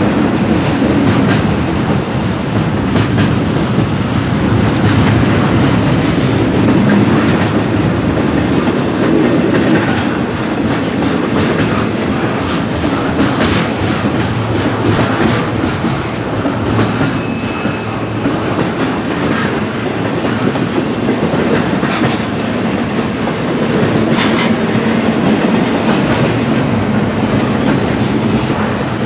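Intermodal freight cars rolling past close by: a steady, loud rumble of steel wheels on rail with repeated clicking over rail joints. A brief high-pitched wheel squeal comes twice, in the middle and near the end.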